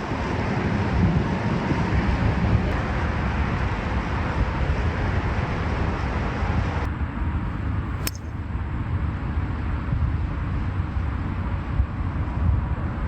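Wind buffeting the microphone: a steady, rumbling roar with hiss above it. About seven seconds in, the hiss suddenly thins, and just after that there is a single sharp click.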